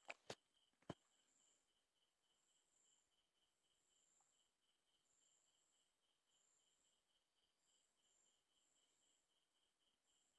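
Near silence with faint crickets chirping steadily, about four chirps a second. Three short clicks in the first second.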